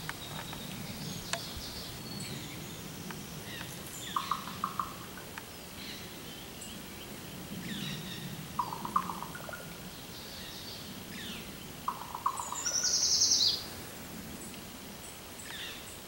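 A raven and a songbird calling back and forth. Clusters of two or three short notes come three times, thin chirps and whistles run throughout, and a loud buzzy trill comes about thirteen seconds in.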